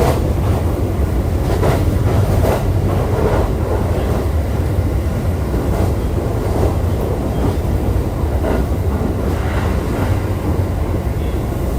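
Running noise of a JR East E531 series electric multiple unit under way, heard inside the car: a steady low rumble of wheels on rail with occasional clacks over rail joints.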